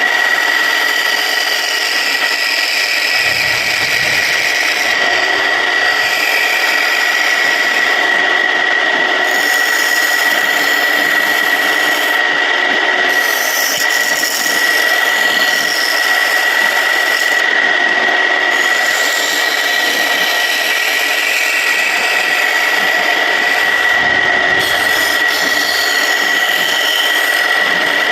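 Homemade wood lathe running with a steady high whine while a tool rubs and cuts against the spinning surian wood, the scraping noise shifting in texture as the tool moves.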